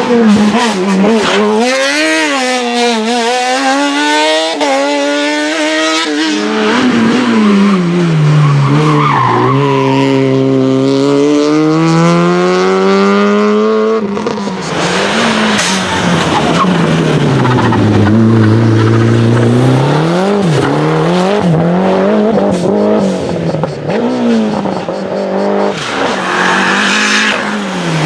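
Race car engines revving hard, their pitch climbing and dropping again and again with throttle and gear changes, with tyre squeal. The sound changes abruptly about six and fourteen seconds in, as from one car to another.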